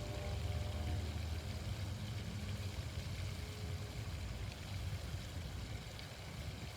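Fountain water splashing steadily, under a low rumble that is strongest in the first couple of seconds.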